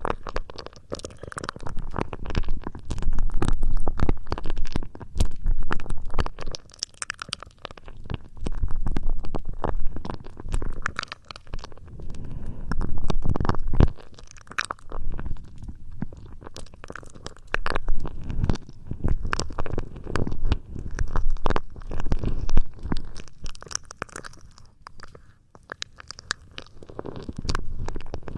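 Close-miked ASMR trigger sounds: dense crackling and muffled rubbing right against the microphone, swelling and fading in waves of a second or two.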